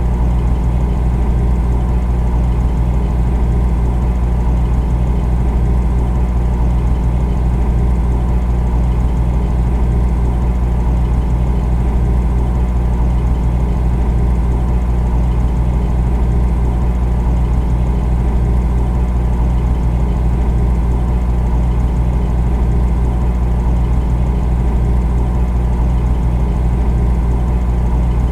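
Refrigerator running: a steady low hum that does not change.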